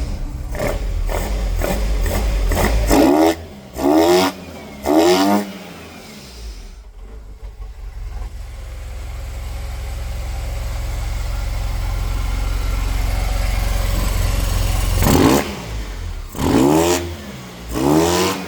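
SYM TL500's two-cylinder engine running and revved in short throttle blips, three in quick succession a few seconds in and three more near the end, with the engine note creeping steadily louder in between. This is a test run after the cylinder head and valve clearance work.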